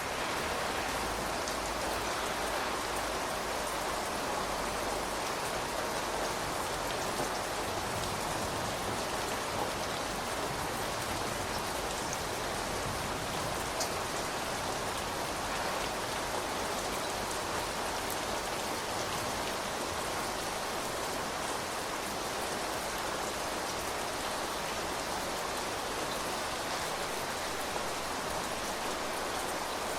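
Steady rain falling: a dense, even patter of drops, with a few sharper drop hits here and there.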